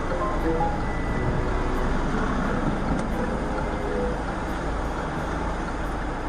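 Steady road and traffic noise picked up by a car dashcam, with a few faint short tones.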